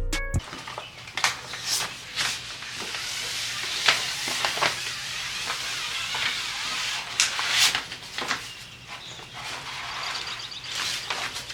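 Music cuts off about half a second in, followed by a steady rustling hiss with sharp crackles scattered through it.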